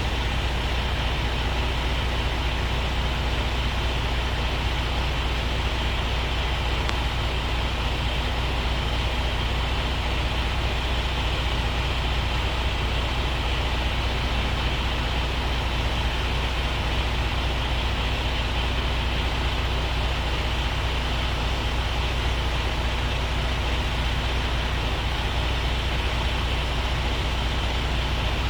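Truck diesel engine running steadily at constant speed, a deep low hum that does not change in pitch or loudness.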